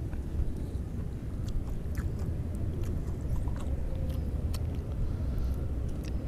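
Close-up chewing and biting of juicy Sunkist orange segments, with many short wet clicks scattered through, over a steady low rumble.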